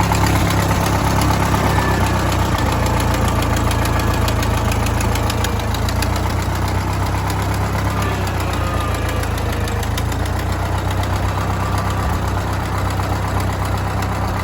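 Ford 8N tractor's four-cylinder flathead engine running steadily with an even firing beat.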